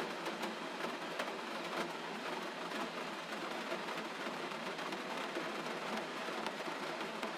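Gentle rain falling steadily, a soft even hiss scattered with many small drop ticks.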